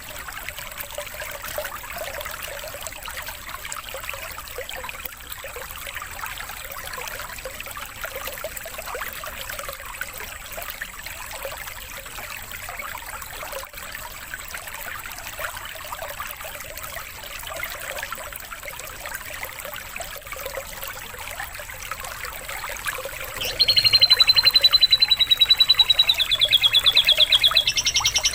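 Steady trickling, running water. About 23 seconds in, a much louder, fast canary trill of rapidly repeated notes starts over it and becomes the loudest sound.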